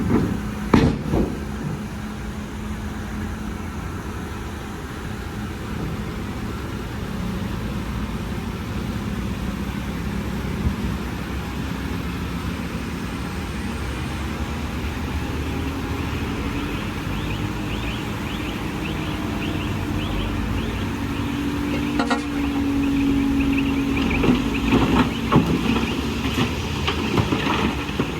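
Bulldozer's heavy diesel engine running under load, its pitch rising a little in the second half. Sharp metallic clanks come just after the start and about two-thirds of the way through, and a burst of rattling clatter follows near the end.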